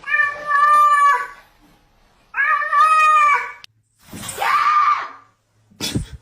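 A cat giving three long, drawn-out meows, each lasting about a second, with short gaps between them. A brief click comes near the end.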